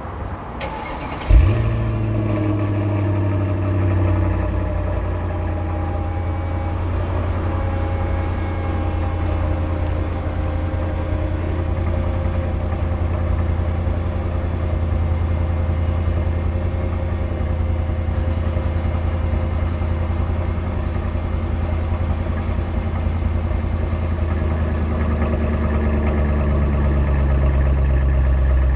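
Mercedes-Benz CLS55 AMG's supercharged 5.4-litre V8 cold-started, catching with a sharp bark about a second and a half in. It then idles steadily through the exhaust, and the idle note shifts and grows a little louder near the end.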